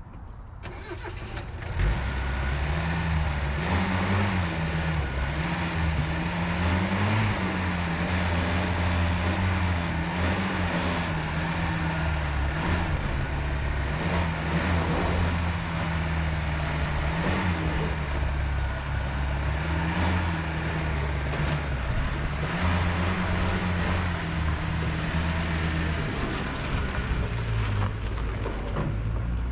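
Datsun 521 pickup's engine running steadily, its pitch lifting slightly now and then. It comes up about two seconds in.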